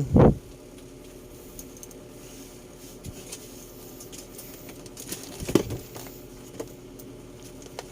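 Small objects being handled and set down: a loud knock right at the start, then light scattered clicks and knocks with a small cluster about five and a half seconds in, over a faint steady hum.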